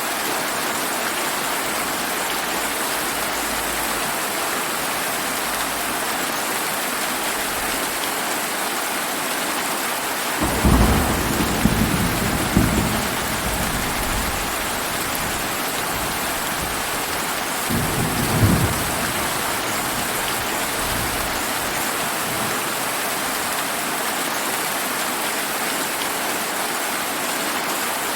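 Steady summer rain with scattered thunder: a rumble of thunder about ten seconds in that lasts about three seconds, and a second, shorter rumble a little past halfway.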